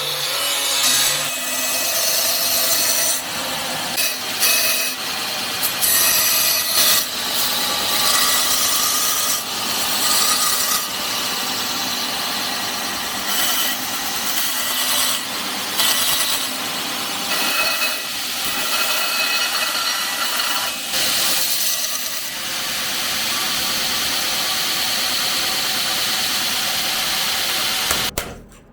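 A tool cutting or grinding steel, running continuously with an uneven, wavering level that then holds steady for the last several seconds before cutting off suddenly near the end.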